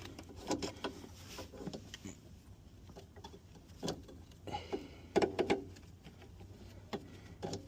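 Irregular small clicks and knocks of hands working cables and fittings into place in a truck cab. The busiest cluster of knocks comes about five seconds in.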